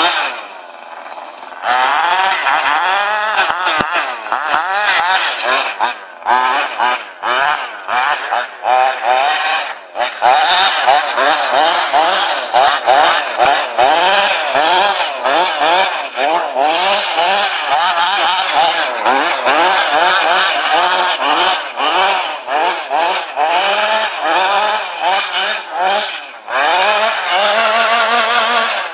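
Tuned 23cc two-stroke engine of a Mutilator 6 petrol RC car, revving up and down rapidly and over and over as the car is driven. It drops back briefly near the start and again about 26 seconds in.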